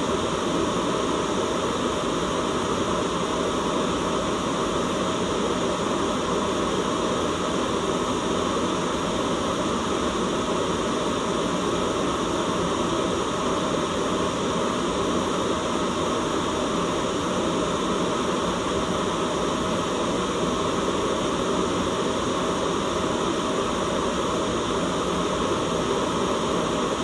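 Steady, unchanging white noise: an even hiss that neither rises nor falls.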